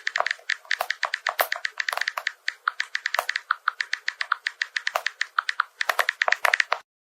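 A rapid, uneven series of light clicks or taps, several a second, that stops abruptly near the end.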